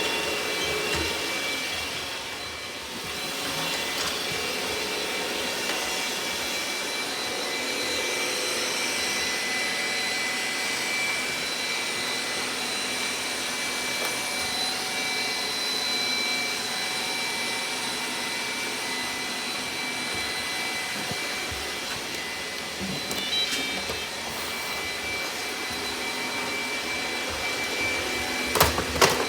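Robot vacuum running steadily: an even whirr of its suction fan and brushes with a thin, steady high whine. It dips briefly about two seconds in, and a few sharp knocks come near the end.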